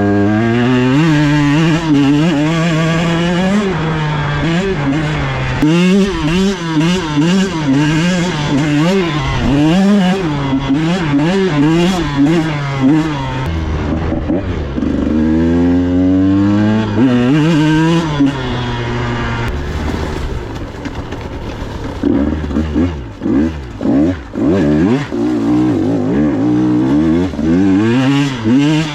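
125cc KTM two-stroke dirt bike engine revving up and down again and again as the throttle is worked, with choppy, quick throttle blips near the end.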